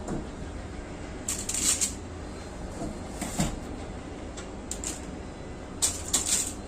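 Kitchen handling noises: several short bursts of rustling and light knocking as food is arranged in a foil-lined roasting tray, over a low steady hum.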